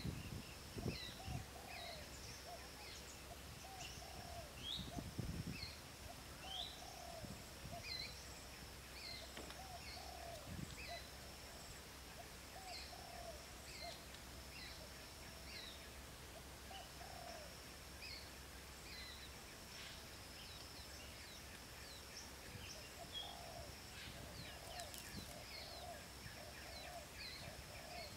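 Birds chirping over and over in short calls, with a faint steady high hum behind them. A few soft low thumps sound in the first few seconds.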